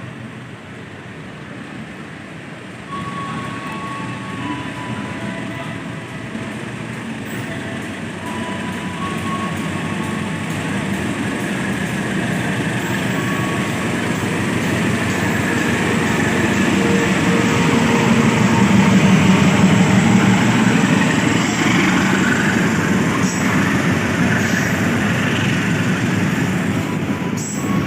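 Train approaching and running past on the track, growing steadily louder to a peak about two-thirds of the way through, then easing slightly.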